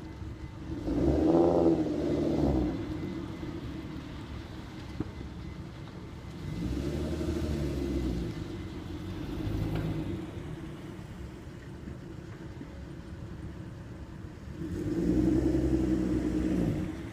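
Mk4 Volkswagen R32's 3.2-litre VR6 engine through its stock factory exhaust, idling and revved up and back down several times: a loud rev about a second in, another around seven seconds, a smaller one near ten seconds and a longer one near the end.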